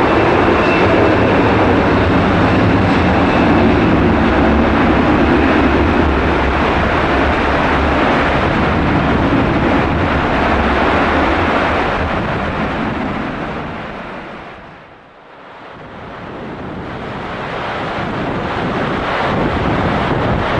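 Airbus A320 jet engines at takeoff power, a heavy steady rumble mixed with the hiss of heavy rain. The sound fades away about three-quarters of the way through, then rain and wind noise swell back up.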